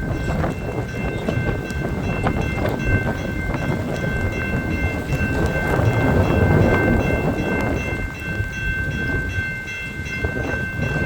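Strong wind gusting and buffeting the microphone, a steady low rumble that swells and eases without a break.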